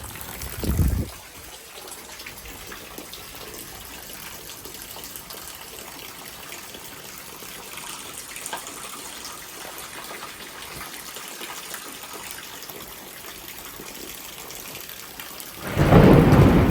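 Heavy rain falling in a steady hiss. Near the end a sudden, loud rumble of thunder breaks in and keeps going.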